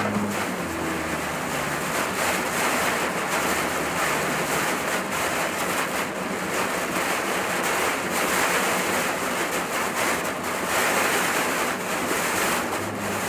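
Steady rushing road and wind noise of a car being driven, with a faint engine hum near the start.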